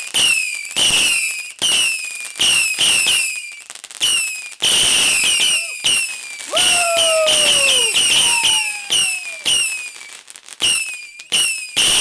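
A multi-shot firework cake firing shot after shot, about two a second. Each shot is a sudden loud report with a brief falling tone after it.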